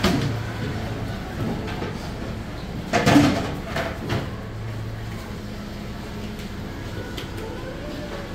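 Restaurant serving-counter background: a steady low equipment hum with scattered clatter and faint voices, and one brief loud noise about three seconds in.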